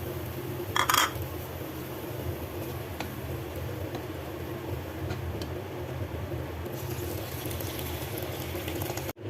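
Kitchen cooking sounds: a steady low hum throughout, with a short clatter of a utensil against a pot about a second in and a few light clicks later.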